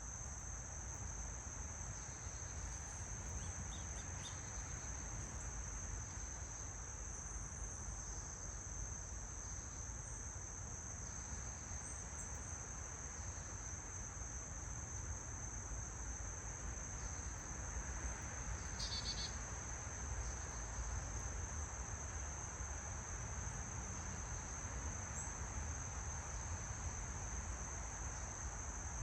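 Steady high-pitched insect chorus droning without a break, over a low rumble. A few faint short chirps sound now and then, the clearest cluster about two-thirds of the way through.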